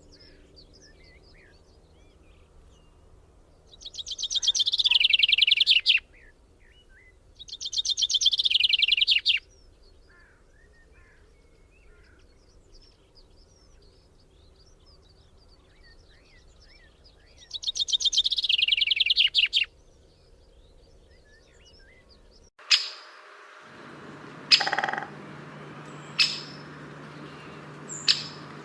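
A bird singing a loud, rapid trilled song three times, each trill about two seconds long, over faint chirping from other birds. Near the end the background changes and a bird gives several short, sharp chirps.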